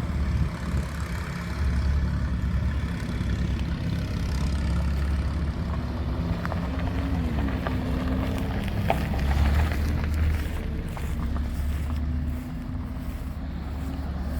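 A vehicle engine running steadily in the background with a deep rumble, its pitch rising and dropping briefly about seven seconds in.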